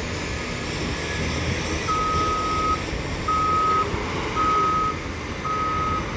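Reversing alarm on heavy mining machinery beeping over a diesel engine's low rumble. The alarm is a single steady tone that starts about two seconds in and sounds four times, roughly once a second.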